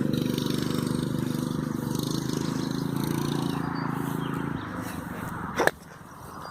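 A mini bike's small engine running steadily, dropping away to a much quieter sound about four and a half seconds in. A single sharp click near the end.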